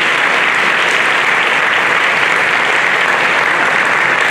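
Audience applauding in a large hall, a steady dense clapping.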